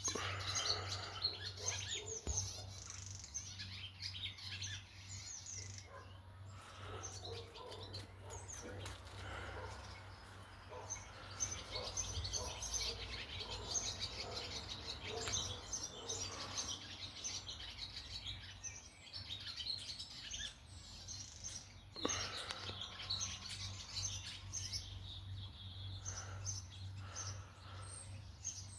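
A barn swallow singing its long twittering song: quick chirps, warbles and chatter that run on almost without a break, over a steady low hum.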